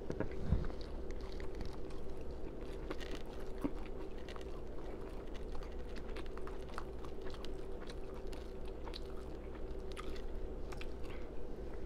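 A person chewing food close to a clip-on microphone, with wet mouth smacking and many small irregular clicks. A low thump comes about half a second in, over a faint steady hum.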